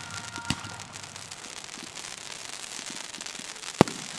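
Fireworks display: aerial shells bursting over steady crackling and popping, with two sharp bangs, a lighter one about half a second in and the loudest near the end.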